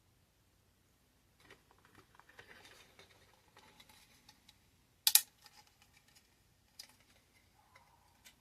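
Light clicking and tapping of small plastic model-kit parts being handled, with one sharp, much louder click about five seconds in.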